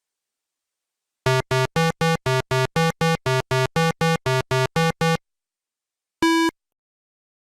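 A rapid run of about sixteen identical short synthesized beeps, about four a second, then a pause and a single beep at a different pitch.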